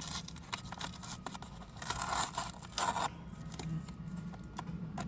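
Plastic takeout containers and food packaging being handled: scraping, clicking and crinkling, with a louder stretch of crinkling or tearing about two to three seconds in.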